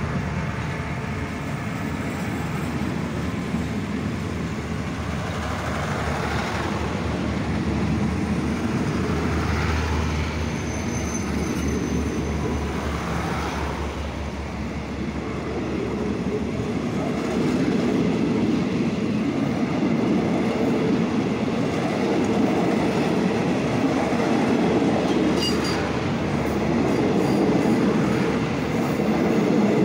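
Passenger train coaches rolling past on the rails, with a continuous rumble and clatter of steel wheels on track that grows a little louder past the middle.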